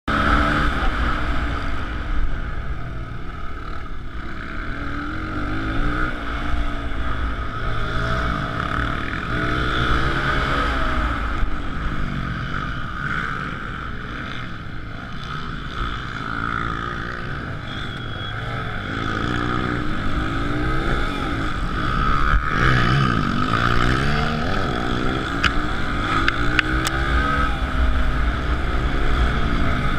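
2007 Suzuki DR-Z125L pit bike's single-cylinder four-stroke engine being ridden hard, its pitch climbing and dropping again and again as it revs up and shifts or backs off, over a steady hiss of wind.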